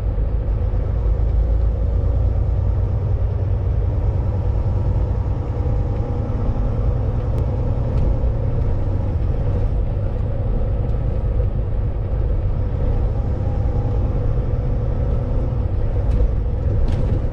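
Steady low rumble of a Volvo VNL 860 semi truck's diesel engine, heard from inside the cab, with a faint steady hum above it and a couple of faint ticks near the end.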